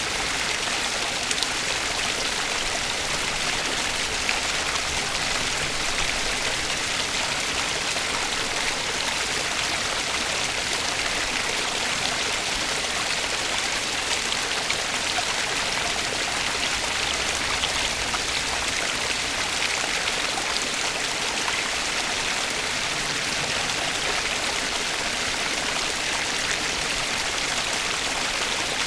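Flowing water of a stream, a steady even rush with fine splashing detail.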